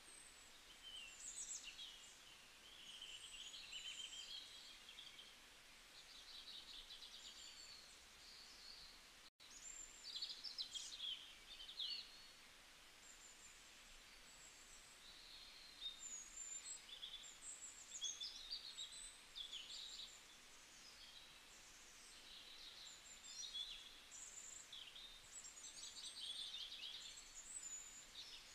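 Faint birdsong: many short chirps and trills from several small birds, overlapping without pause. The sound cuts out for an instant about a third of the way in.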